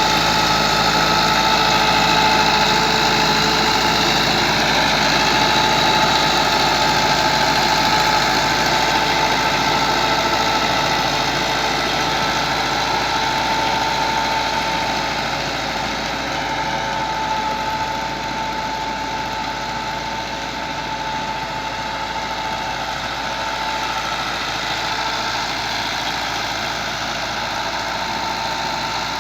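Massey Ferguson 385 tractor's four-cylinder diesel engine running steadily, with a steady whine over it; it grows slightly quieter about halfway through.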